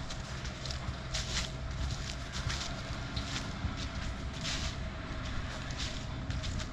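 Footsteps crunching on the forest floor at a steady walking pace, about a step or two each second, over a continuous low rumble.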